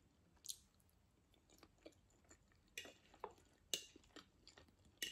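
Faint chewing and mouth sounds of someone eating tuna pasta salad, with scattered soft clicks and smacks.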